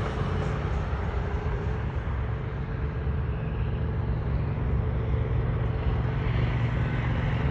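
Jet airliner taking off: a steady engine roar at takeoff power with a deep rumble underneath. The higher hiss thins a little after the first couple of seconds.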